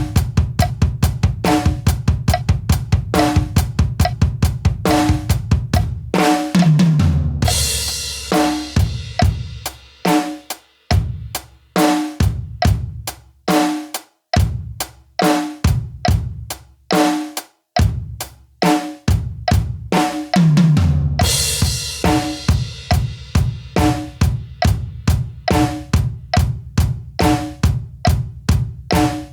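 Drum kit played in a simple, even groove at 70 BPM. About seven seconds in, and again around twenty-one seconds in, a fill down the toms ends on a crash cymbal. Between the two fills the playing thins out to sparser strokes with short gaps.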